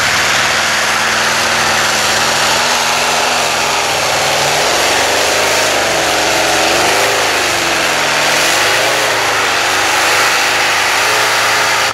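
18-cylinder supercharged radial aircraft engine of a tractor-pulling machine running flat out under load during a pull. Its pitch wavers up and down through the middle, and the sound cuts off suddenly at the end.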